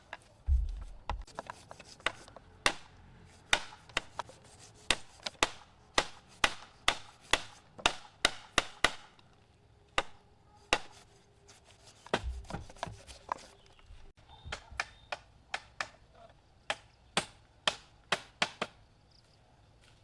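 Repeated sharp blows on wood, about two a second, in runs with a short break partway through and a couple of dull low thuds among them.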